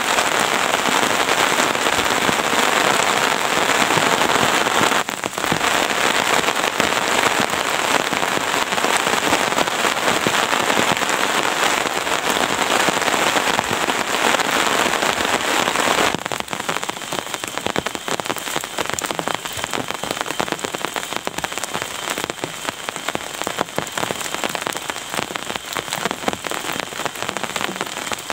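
Heavy rain falling in a dense, steady patter. About sixteen seconds in it suddenly turns quieter, to a looser patter of separate drop hits.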